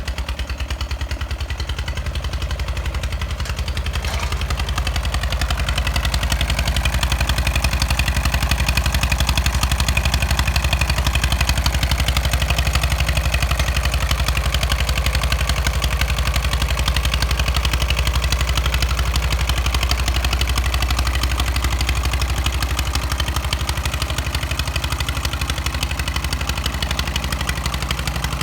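Two-cylinder diesel engine of an old Jiangxi 18 hp tractor (JT motor) running steadily and chugging, with a clattery mechanical note, getting somewhat louder about six seconds in.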